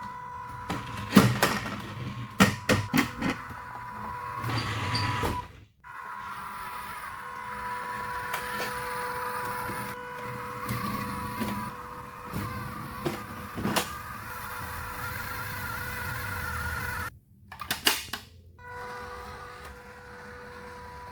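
Toy RC truck on a ramp: bursts of sharp plastic knocks and clatter, with a steady high whine underneath.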